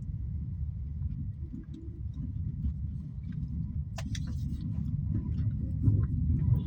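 Low, steady rumble of a Toyota Axio driving through city traffic, growing gradually louder, with one sharp click about four seconds in and a few faint ticks.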